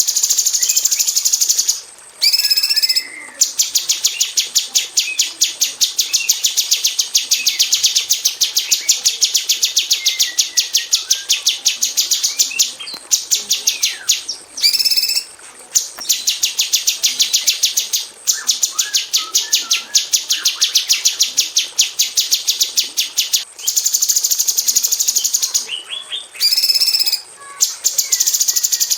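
Female orange-bellied leafbird (cucak cungkok) calling in rapid-fire 'tembakan rapat' bursts: long runs of sharp, closely spaced high notes lasting several seconds each, broken by brief pauses.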